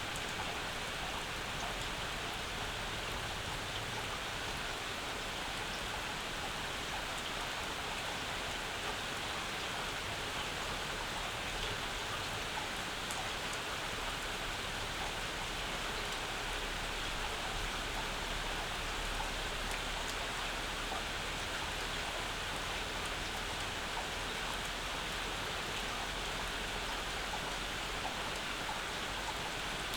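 Steady summer rain falling and pattering on surfaces, an even hiss with scattered individual drop taps.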